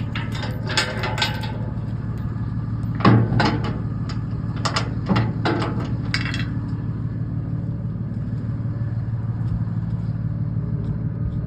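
Truck engine running steadily, with a series of sharp knocks in the first six seconds or so.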